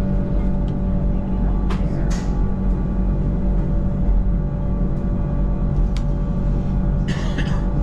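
Mountain railway train running steadily: a continuous low rumble with a steady motor hum, a couple of sharp clicks, and a brief hiss near the end.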